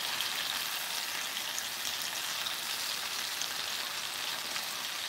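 Chicken thighs frying in a pan of soy sauce and sake sauce: a steady sizzle as the liquid cooks down.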